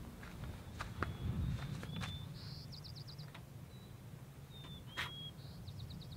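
A small bird sings the same short song twice, a buzzy note followed by a quick run of about five notes, among a few thin whistled calls. Under it runs a steady low rumble, and there are a few sharp clicks.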